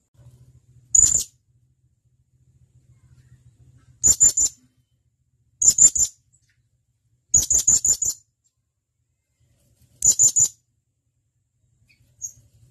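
Blue-crowned hanging parrot (serindit) giving sharp, high-pitched calls in five short bursts of quick notes, a second or two apart.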